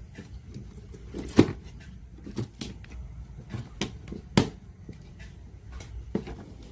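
Scattered clicks and knocks of small parts and tools being handled, with two sharper knocks, one about a second and a half in and one about four and a half seconds in, over a low steady hum.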